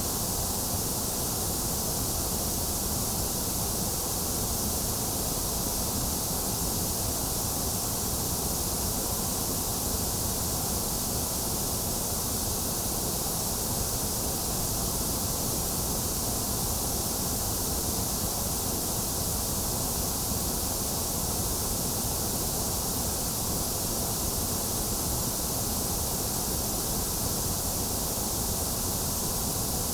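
Steady, unchanging white noise: an even hiss with a bright top end and a hollow in the middle, played as a sleep sound for babies.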